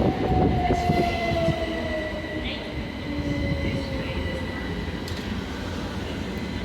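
Electric train running through the station, its motor whine falling slowly in pitch over the first few seconds over a steady rumble and a thin high whistle, growing quieter.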